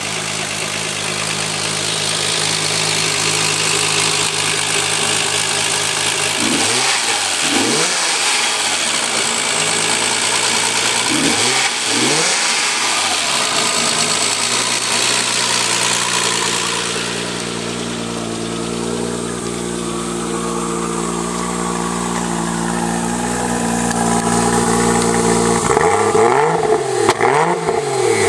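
Modified 1995 Nissan Skyline GT-R's RB26 straight-six idling steadily, revved three times in brief blips that rise and fall in pitch: about a quarter of the way in, near the middle, and near the end. The last blip is heard from the exhaust tip and is the loudest.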